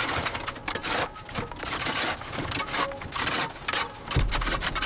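Rapid, irregular knocking and scraping of hand tools working hard material, with a low hum coming in about four seconds in.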